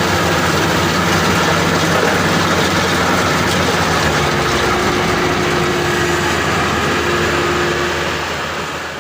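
Maxxi Bimo 102 SS combine harvester running with a steady engine hum, fading away near the end.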